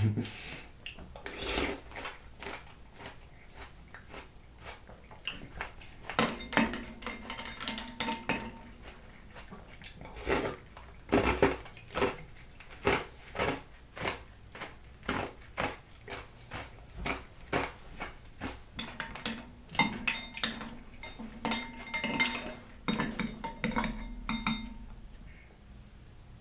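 A spoon clinking and scraping against a bowl, over and over at an uneven pace, while fruit is scooped out of coconut water.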